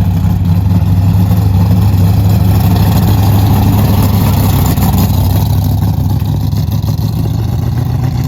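A car engine running loud and steady at a constant speed, with its note shifting slightly near the end.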